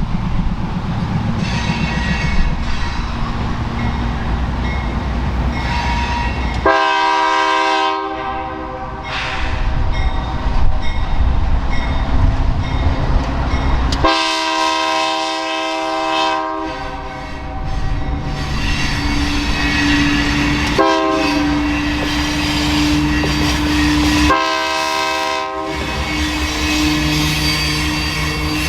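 Diesel freight locomotive sounding its multi-chime air horn in the grade-crossing pattern: long, long, short, long. Under it the locomotive and train rumble past with wheels clicking on the rail joints.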